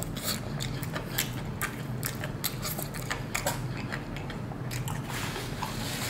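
Close-up chewing of a crispy battered fried chicken wing: wet crunches and mouth clicks a few times a second. A paper napkin rustles near the end.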